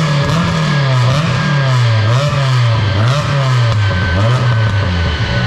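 Peugeot 106 S16's 1.6-litre 16-valve four-cylinder engine on a chassis dyno, revs falling after a full-throttle pull, rising and dipping slightly several times as it slows, then holding a steady lower speed near the end. A faint steady high whine runs underneath.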